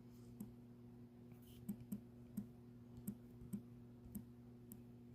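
Faint, light clicks, about ten at uneven intervals, over a steady low electrical hum.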